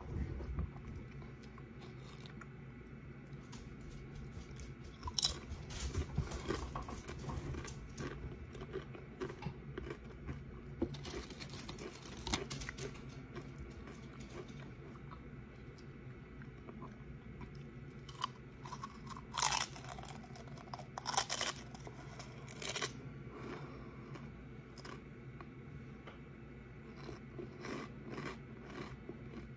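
Close-up chewing and crunching of orange tortilla chips, with short crisp bites and crunches throughout and a few louder ones about twenty seconds in.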